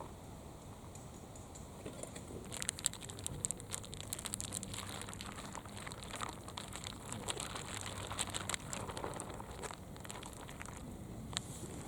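Crinkling and rustling of something being handled, a dense run of small sharp clicks that starts about two seconds in and thins out near the end.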